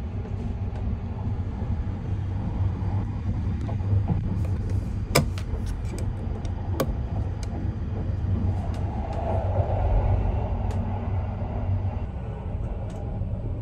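Steady low rumble of the Sunrise Izumo sleeper train, a 285 series electric multiple unit, running, heard from inside a sleeper compartment. Two sharp clicks come about five and seven seconds in.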